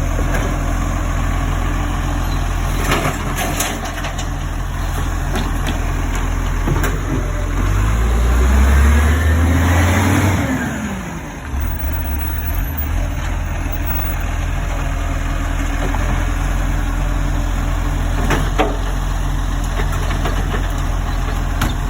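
Garbage truck engine idling, revving up and rising in pitch for a few seconds about a third of the way in, then dropping back to idle. A couple of sharp knocks sound over the idle.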